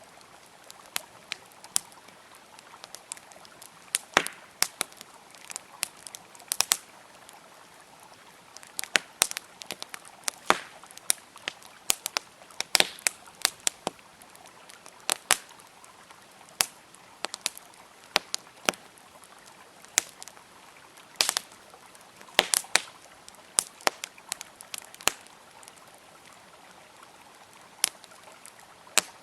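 Wood campfire crackling with frequent sharp, irregular pops and snaps, over a soft, steady rush of a flowing river.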